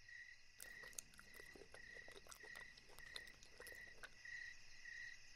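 Faint cricket chirping: a short chirp repeating evenly a little under twice a second, with scattered faint clicks.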